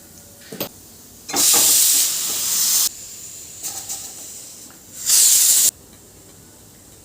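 Two loud bursts of hissing, the first about a second and a half long and the second about half a second, with a few light clicks before and between them.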